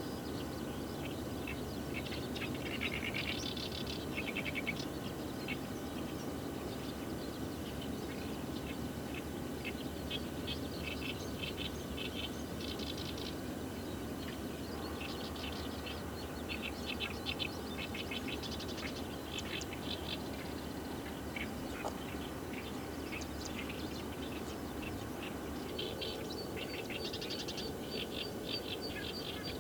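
Wild birds calling in repeated bursts of rapid high chirps and trills, over a steady low background rumble.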